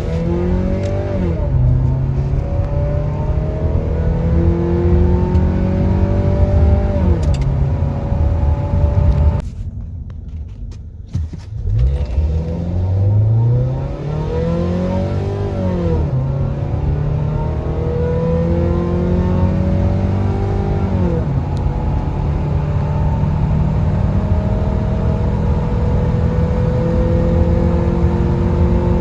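A Nissan Altima's 2.5-litre QR25DE four-cylinder, fitted with an aftermarket header, pulling at full throttle. The engine note climbs and drops sharply at each gear change. About ten seconds in it falls away briefly, then climbs again from low through more gears and holds high near the end.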